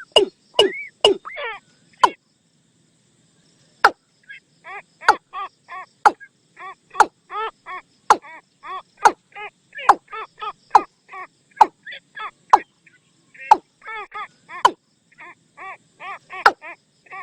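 Watercock calls as a decoy recording for luring the birds: a long run of short, clicky, pitched notes repeated a few times a second, broken by a pause of about two seconds shortly after the start.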